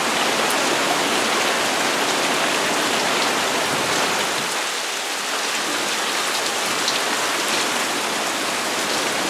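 Heavy monsoon rain falling steadily, an even hiss with a few sharper drop ticks.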